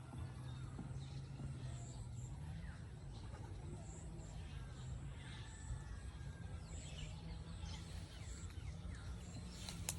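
Small birds chirping in short calls over a low, steady hum, with a sharp click near the end.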